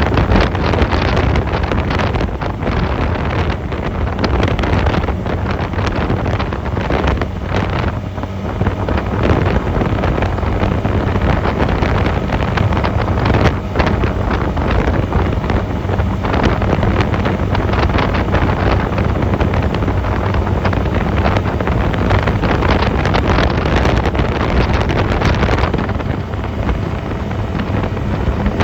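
Wind buffeting the microphone of a moving Honda 250cc motorcycle, with the bike's engine running underneath; the loudness dips briefly twice.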